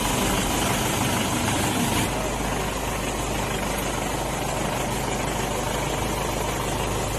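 Steady rushing of floodwater pouring from an overflowing dam, an even noise without pause.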